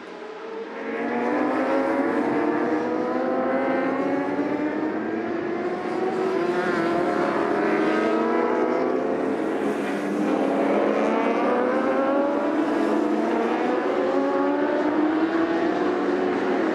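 Racing motorcycle engines accelerating hard through the gears. The pitch climbs, drops back at each upshift, then climbs again, over and over. The sound swells in about a second in.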